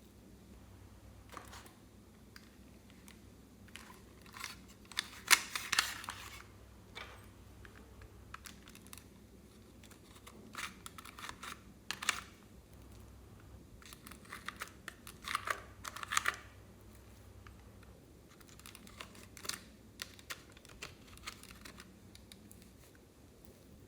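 Slime being squished and handled, giving irregular bursts of small crackling clicks and pops.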